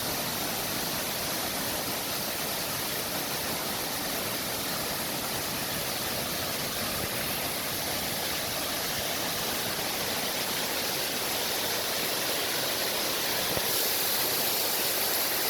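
Waterfall rushing steadily, a constant roar of falling water that grows a little louder and brighter near the end.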